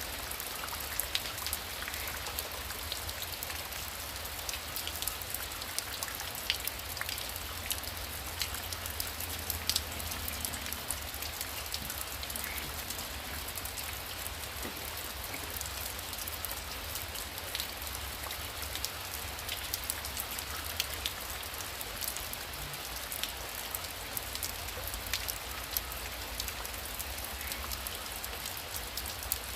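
Heavy rain falling steadily, a constant hiss with many distinct drops pattering on a surface, over a low rumble.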